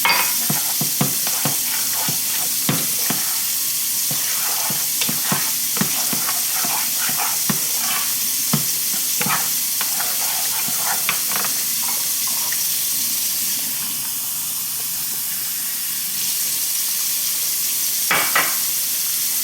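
Flour-and-water gravy sizzling in a hot pan while a utensil stirs it, with a steady hiss and many irregular clicks of the utensil against the pan, dying down for a couple of seconds before a last pair of clicks near the end.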